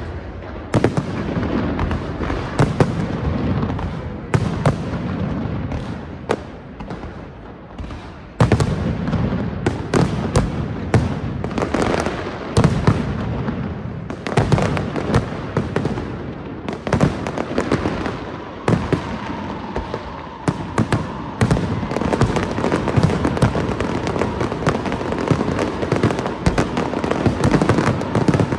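Aerial fireworks display: a dense run of bangs and crackling reports over a continuous rumble, dipping briefly about eight seconds in before a louder stretch.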